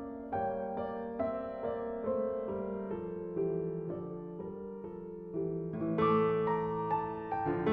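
Gentle background piano music, a slow run of single notes over sustained lower notes, growing louder about six seconds in.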